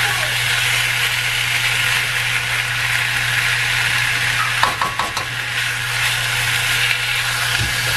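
Chicken pieces and onion sizzling in a hot wok while a wooden spatula stirs them, over a steady low hum. A few knocks of the spatula against the pan come about five seconds in.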